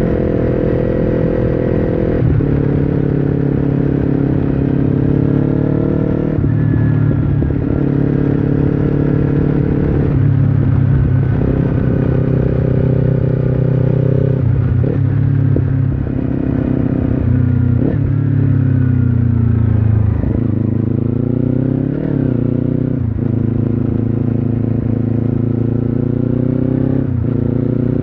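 Kawasaki Ninja 300 parallel-twin engine through an Akrapovic slip-on exhaust, heard onboard while riding. The engine note holds steady for a few seconds at a time, then jumps in pitch, as with gear changes. About two-thirds of the way through it falls gradually, then picks up again.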